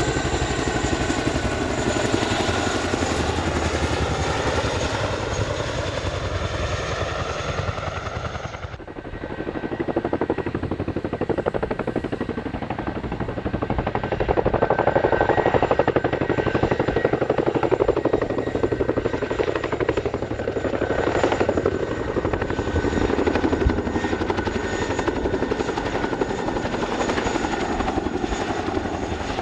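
Boeing CH-47D Chinook tandem-rotor helicopter flying, with steady loud rotor and turbine noise and slowly gliding tones in the first seconds. About nine seconds in, the sound dips abruptly and loses its high end, then builds again and is loudest around the middle.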